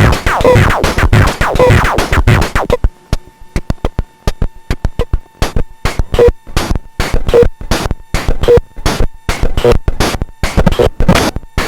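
Bastl Kastle Drum glitchy noise percussion played through a Korg NTS-3 effects unit, a rapid dense drum-machine pattern. About three seconds in it thins to sparse sharp clicks over a faint steady tone, with a short pitched blip about once a second. The hits then build back into a fast run.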